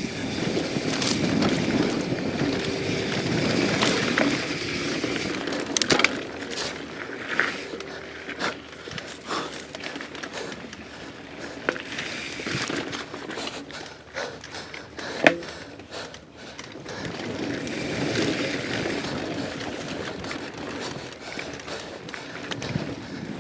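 Mountain bike ridden fast along a technical dirt trail: a steady rush of tyre and wind noise, with rattles and sharp knocks as the bike goes over bumps. The loudest knock comes a little past the middle.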